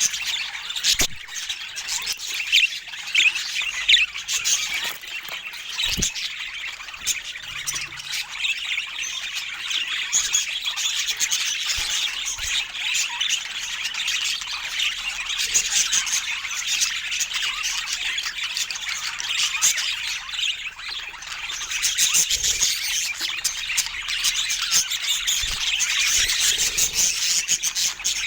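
Budgerigars chattering and squawking continuously, with dense high-pitched warbling and a couple of short clicks.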